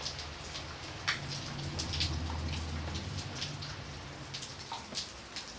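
Steady rain falling, with individual raindrops ticking at irregular moments over the hiss, and a low steady rumble underneath.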